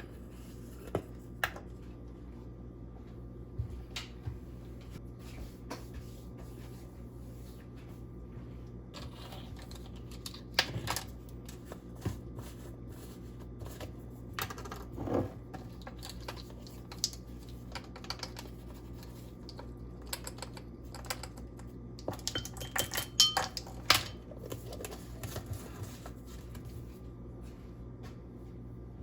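Scattered light clicks and taps of measuring spoons and spice jars handled on a counter, with a quicker run of clicks a little past the middle, over a steady low hum.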